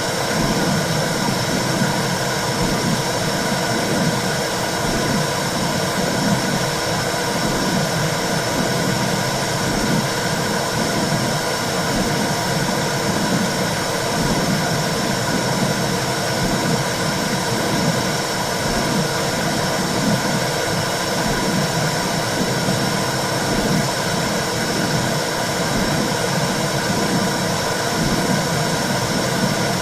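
Womb sound for soothing a baby: a steady rushing whoosh with a soft, even, repeating pulse underneath.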